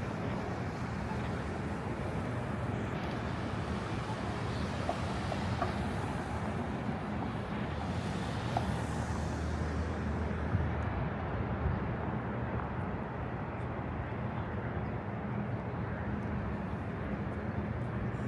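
Downtown street ambience: steady traffic noise with a low hum, and a vehicle passing about eight seconds in.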